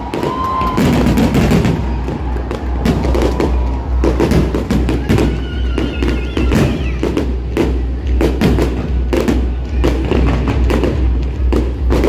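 Aerial fireworks shells bursting in rapid, overlapping bangs, over music with a steady bass beat about twice a second.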